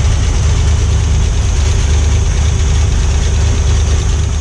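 A 1967 Corvette's L79 327 small-block V8 idling steadily.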